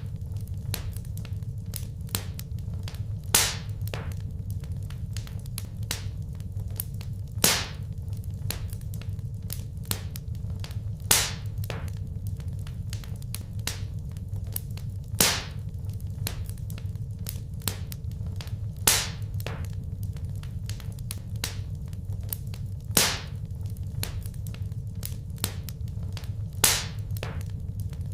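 Wood fire crackling over a steady low rumble: many small ticks and snaps, with a loud sharp pop about every four seconds.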